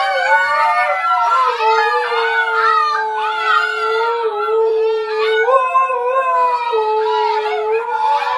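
An adult Siberian husky and a litter of husky puppies howling together: one low howl held nearly steady underneath, with several higher, wavering howls over it.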